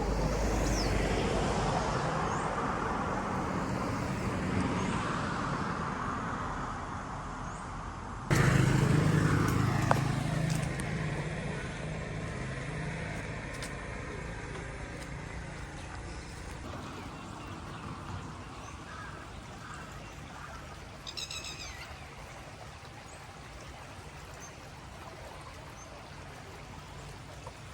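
Street traffic: a steady hum of vehicles, with a louder engine passing about eight seconds in and fading away.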